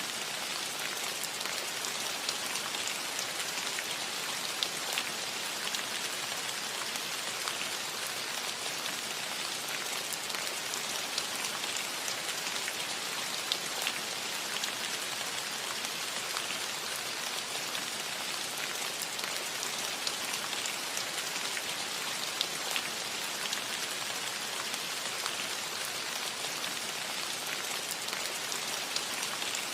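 Steady rain falling on a metal roof: an even hiss with many small drop ticks scattered through it.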